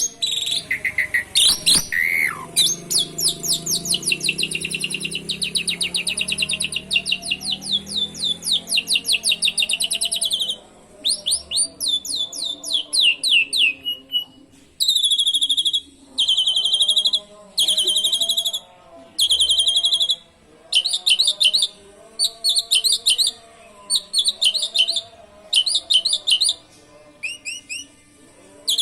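Asian pied starling (jalak suren) singing a song filled with canary-like phrases: a long, fast trill of rapidly repeated down-slurred notes for about the first ten seconds, then a string of short, high whistled phrases about once a second.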